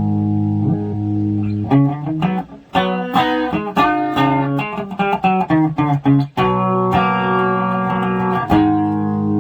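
Amplified plucked strings played through a SONICAKE Boom Ave bass multi-effects pedal: held notes, then a quick run of single plucked notes from about two to six seconds in, then held notes again.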